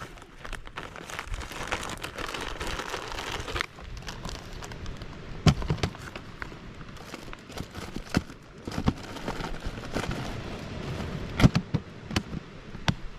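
Four or five sharp, loud cracks or knocks spaced a few seconds apart, with a rustling hiss in the first few seconds.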